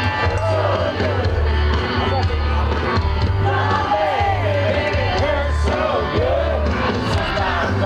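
Children's amateur rock band playing loudly, with a heavy, pulsing low bass and a child's voice singing and yelling over it.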